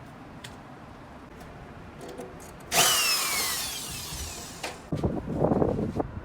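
A power tool runs in two short stretches. It starts sharply about three seconds in and its pitch falls as it winds down, then a second, lower-pitched run comes near the end.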